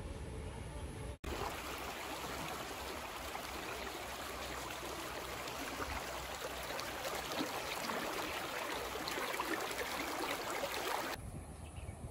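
Creek water rushing over rocks, a steady, dense splashing hiss that starts suddenly about a second in and stops suddenly near the end.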